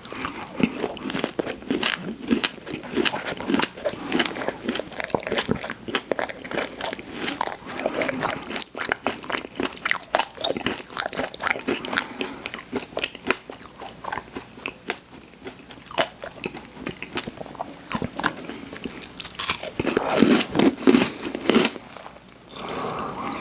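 Mouth sounds of eating crunchy cookies: a steady run of crisp bites and crunches while chewing, growing louder and fuller about twenty seconds in.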